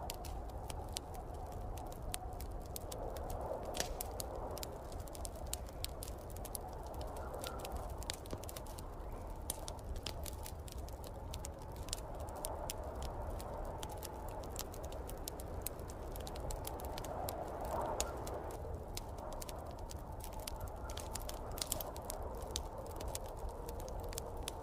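Wood fire crackling in a fireplace, with irregular sharp pops over a low, steady rumble, and snowstorm wind swelling and easing behind it.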